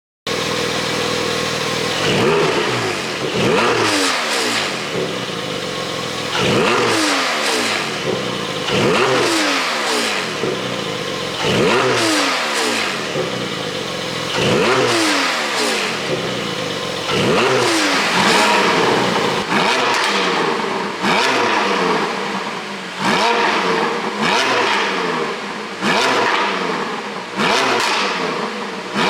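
Porsche 718 Boxster 4.0 GTS's flat-six exhaust, tuned for pops, revved again and again and falling back each time with popping and crackling on the overrun. The blips come about every two and a half seconds at first and quicker in the second half.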